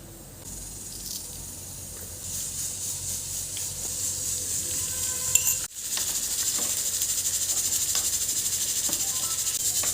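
Food sizzling and hissing in a hot pan. The sizzle grows steadily, breaks off abruptly about halfway, then comes back louder with a quick, even pulsing.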